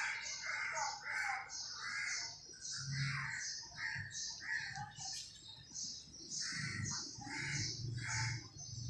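Birds calling in quick, repeated, rasping notes, about two or three a second, with a faint low hum now and then.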